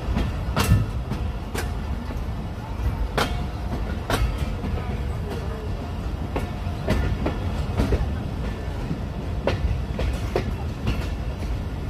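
Pakistan Railways passenger train (Awam Express) rolling out of the station at low speed, heard from on board: a steady low rumble of the coaches with sharp clicks and knocks from the wheels every half second to a second, a clickety-clack over rail joints and points.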